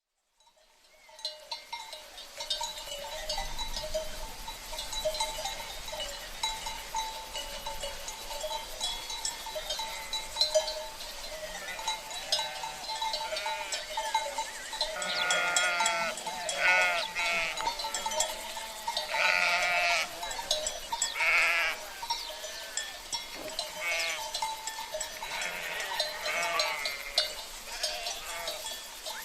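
A flock of sheep with livestock bells (cencerros) clanking steadily, and several sheep bleating, most strongly in the middle of the stretch, over a steady rush of running river water. The sound fades in over the first couple of seconds.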